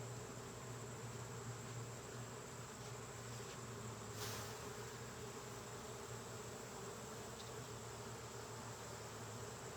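Honeybees buzzing around an open hive in a steady, even hum, with a short rustle about four seconds in.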